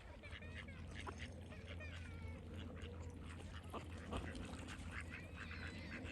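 Many birds calling at once, a dense mix of short overlapping calls and chirps over a steady low hum.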